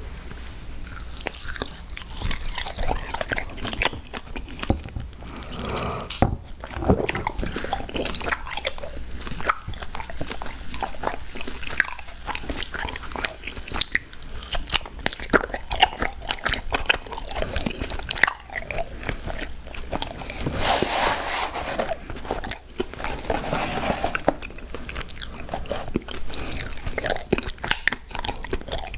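Close-miked ASMR mouth sounds of crunchy cookies being bitten and chewed: dense, crisp crackles and crunches, with wetter chewing between bites.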